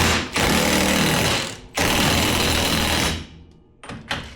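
Impact wrench hammering in bursts as it tightens a rear axle nut: several runs of a second or so with short pauses between them, then a brief blip near the end.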